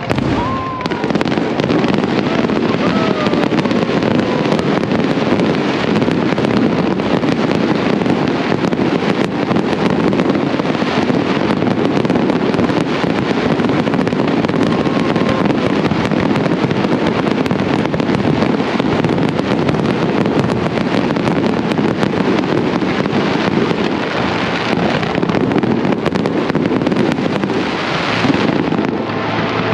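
Fireworks display: a dense, continuous barrage of aerial shells bursting and crackling. A few faint falling whistles come in the first few seconds.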